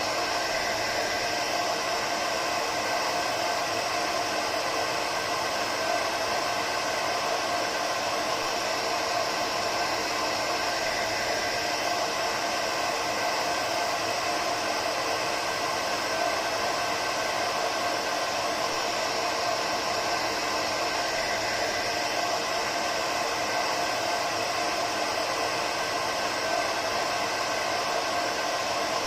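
Hair dryer running steadily: an even rushing of blown air with a faint motor hum, holding without change.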